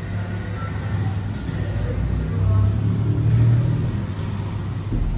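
Low steady rumble of a motor vehicle running, which swells louder for about a second in the middle.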